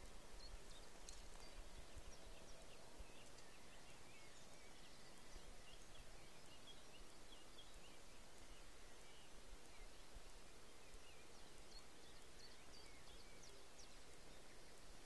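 Quiet open-air ambience with faint, distant bird chirps scattered throughout, over a low rumble on the microphone.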